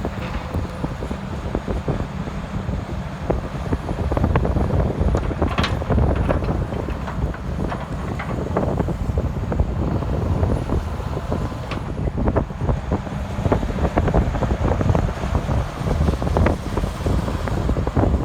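John Deere 330 LC track excavator's diesel engine running steadily, with scattered metallic clanks and knocks, and wind noise on the microphone.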